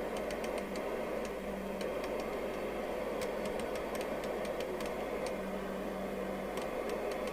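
Domico Convoy 1 FM CB radio's speaker giving out a steady rush of received band noise with a low hum and faint crackles. This is foreign interference coming in at about S5.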